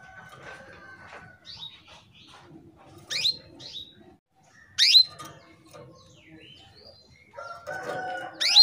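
Female canary calling: short, sharp chirps that sweep steeply down in pitch, three loud ones about 3 seconds in, about 5 seconds in and at the very end, with softer chirps between. A lower wavering tone joins shortly before the end. These are the calls of a female in breeding condition, used to get male canaries to sing.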